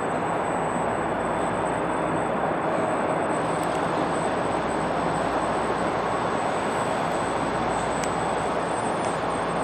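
Steady drone of distant motor traffic with no breaks, and a faint thin high whine running over it.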